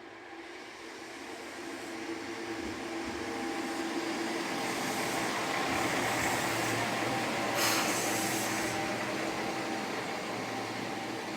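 Diesel railcar arriving at a station platform: its engine and wheels grow louder as it draws in and slows. A short hiss comes about eight seconds in.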